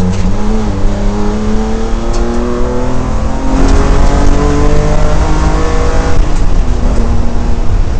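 BMW M3 race car's engine heard from inside the cabin, pulling hard with its pitch climbing steadily. About six seconds in the pitch drops sharply, then starts climbing again.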